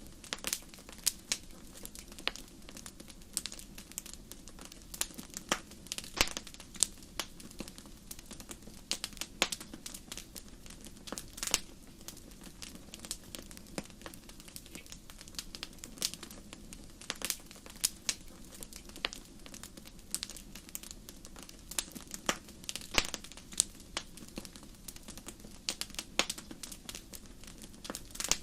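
Wood fire burning in a fireplace, with frequent irregular sharp crackles and pops over a steady low hiss of the flames.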